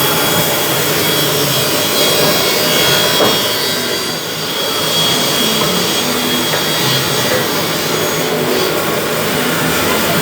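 Wood being cut or machined by a woodworking machine: a loud, steady, noisy sawing sound.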